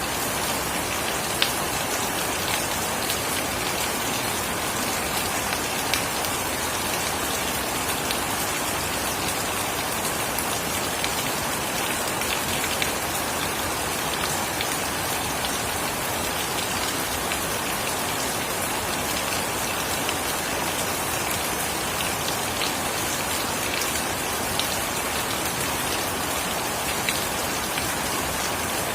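Steady rain falling, an even hiss with dense close drip and patter strikes and a few sharper single drops.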